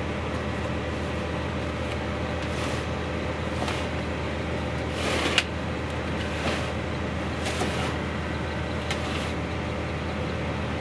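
Steady hum of a truck engine idling nearby, with a few brief rustling handling noises over it and a sharp knock about five seconds in.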